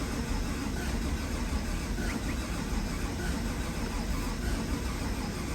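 The rebuilt 6.2-litre LT1 V8 of a 2017 Chevrolet Camaro SS 1LE running steadily at an even speed, with its sound sitting mostly low.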